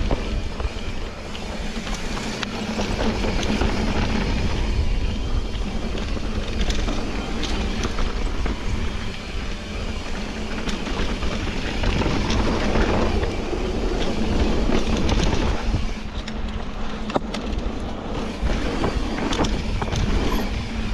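Wind buffeting the microphone over steady road rumble while riding, with scattered sharp clicks and rattles from the bike and its mount.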